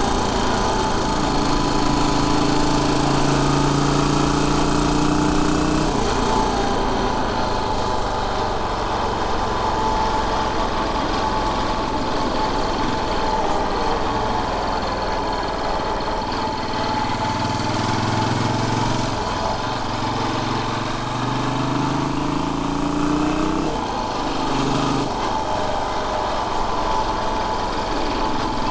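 Royal Enfield Bullet 500's single-cylinder engine running as the motorcycle is ridden, its note changing pitch several times as the revs rise and fall.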